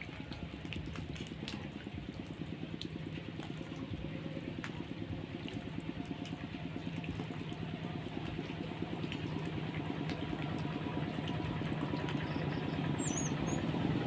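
A small engine running with a fast, even pulse, growing steadily louder.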